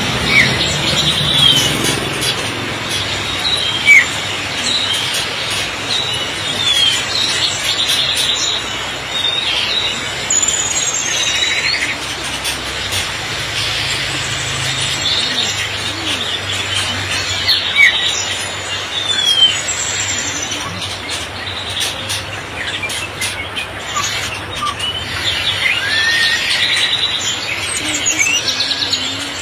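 Many caged songbirds chirping and giving short, sharp whistles, scattered and overlapping, over the steady hiss of heavy rain.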